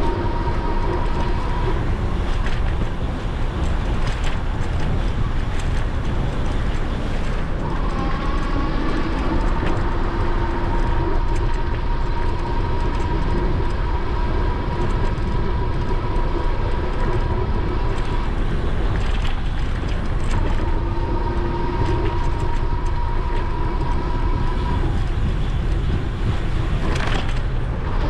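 Wind rushing over a GoPro's microphone on a moving e-bike, with a steady whine from the electric assist motor that comes and goes, rising slightly in pitch where it returns about eight seconds in.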